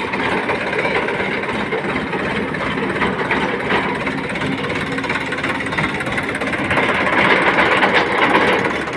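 Tractor engine running steadily, a little louder for about two seconds near the end.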